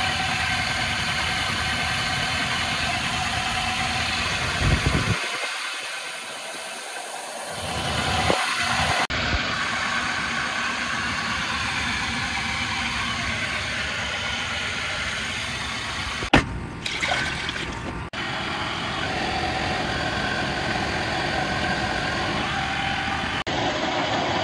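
2003 Toyota 4Runner's 2UZ-FE V8 engine starting and running on its newly replaced starter. The deep engine sound drops out about five seconds in and builds back up about eight seconds in, with a few sharp clicks along the way.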